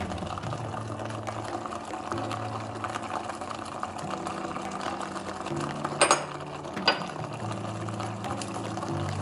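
Blended rendang chilli paste frying in oil with a dense, crackling sizzle, under background music with a slow bass line. Two sharp knocks sound about six and seven seconds in.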